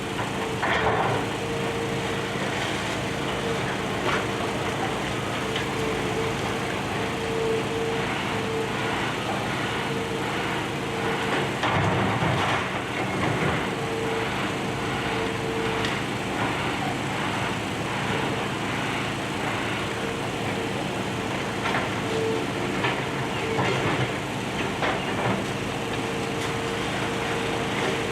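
Demolition excavator's diesel engine running steadily with a wavering hydraulic whine, over scattered knocks and clatter of debris.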